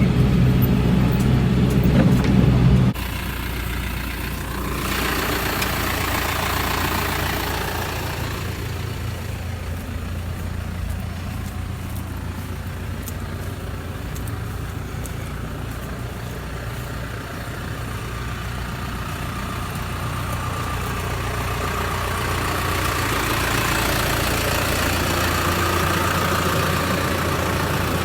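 Tractor engine running steadily. It is loud at first, drops suddenly about three seconds in, and then runs on more quietly.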